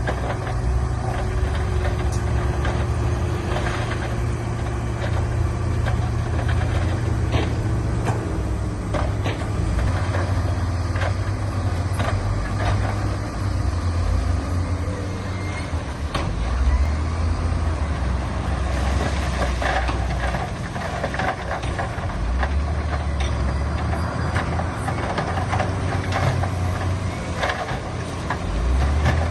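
Heavy diesel earthmoving machinery at work: a deep engine rumble that rises and falls with the load, with scattered sharp knocks of stone and steel.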